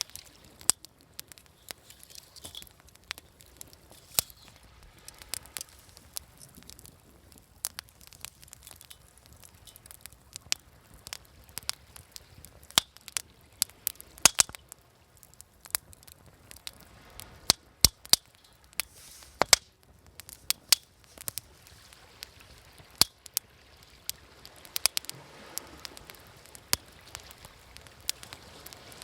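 Wood fire crackling, with sharp irregular pops and snaps over a soft hiss. A gentle wash of waves swells underneath near the end.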